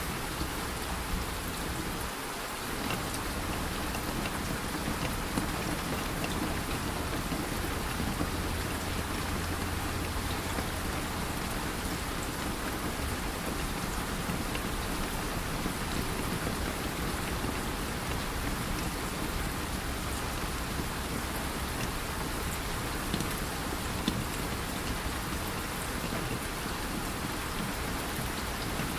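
Steady, even rain falling, with scattered sharp drop ticks.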